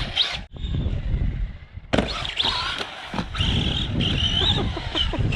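Arrma Typhon 3S RC buggy with its brushless motor whining through changing revs and its tyres on concrete. The sound drops away briefly, then comes back suddenly about two seconds in.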